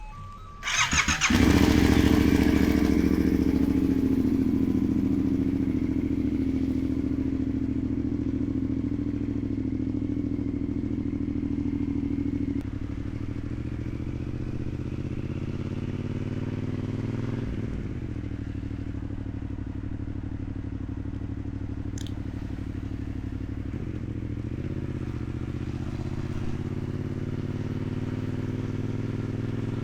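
2016 Yamaha MT-07's parallel-twin engine on its stock exhaust catching about a second in, then idling steadily. The idle eases off gradually and drops a step about twelve seconds in.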